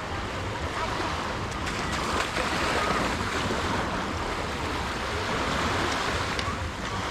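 Surf washing onto a sandy beach in a steady rush that swells a little twice, with wind buffeting the microphone.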